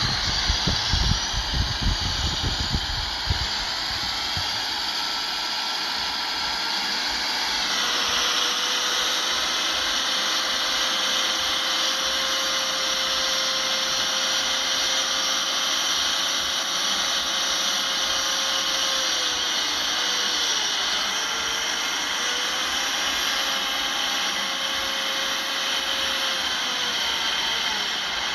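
Heavy diesel earthmoving machinery working, with a steady high-pitched whine and hiss over the engine. A heavy low rumble fades out in the first few seconds, and the pitch drops briefly about eight seconds in and again around twenty seconds.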